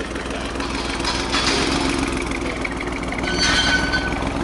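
Alfa Romeo Stelvio Quadrifoglio's twin-turbo V6 running through its quad exhaust while the car creeps along at low speed: a steady low hum with two brief louder rushes, about a second in and again near the end.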